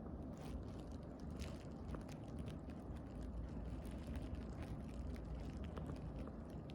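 Irregular light clicks and ticks, several a second, over a steady low rumble.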